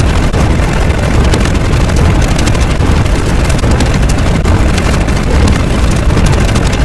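Loud, steady rumbling noise, heaviest in the low end, with no pauses or distinct strikes.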